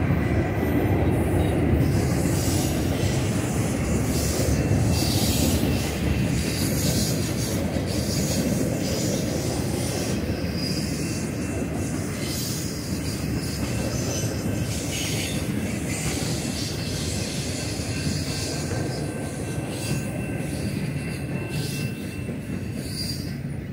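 Freight train flatcars rolling over the rails: a steady rumble of wheels with thin, high wheel squeals. The sound fades gradually as the end of the train passes and draws away.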